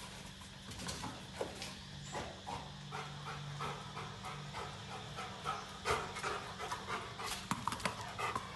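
A Rottweiler panting in quick, short breaths, louder from about six seconds in.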